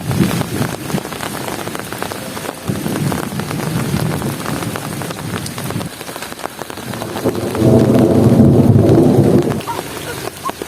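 Heavy rain falling, many drops tapping on surfaces, under a low rumble that swells and fades several times and is loudest for about two seconds near the end.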